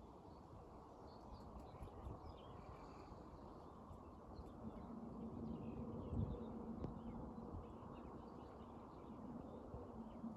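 A flying insect buzzes steadily close by, starting about halfway in. Faint bird chirps and a low outdoor rumble sit under it.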